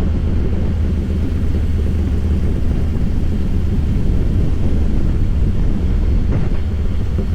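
Harley-Davidson Fat Boy's V-twin engine running steadily under way, a deep, even rumble with no marked change in revs.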